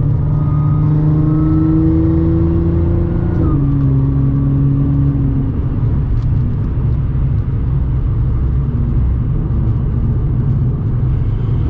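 Audi S4 B8.5's supercharged 3.0-litre V6 through an AWE exhaust with test pipes, heard from inside the car: the engine note climbs slowly for about three seconds, drops sharply at a gear change, then settles into a low drone with road rumble.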